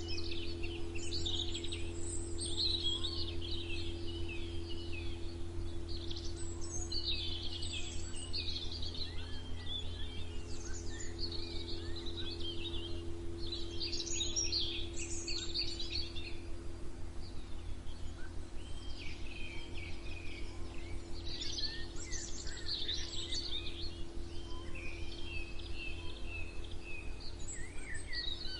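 Songbirds chirping and singing in quick overlapping twittering phrases, one cluster after another, over a steady low hum.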